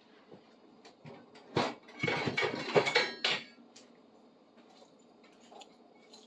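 Metal hand tools knocking and clinking together as they are picked up and set down on a workbench: a single knock, then about a second and a half of rattling clatter with brief metallic ringing.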